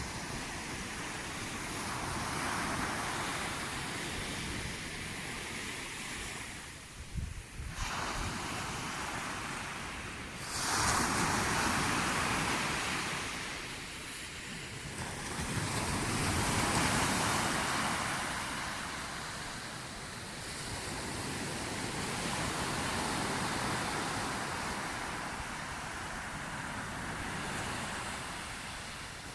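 Sea waves washing in, the surf swelling and fading in slow surges every several seconds; the strongest break starts suddenly about ten seconds in, and another peaks near seventeen seconds. A few low thumps come about seven seconds in.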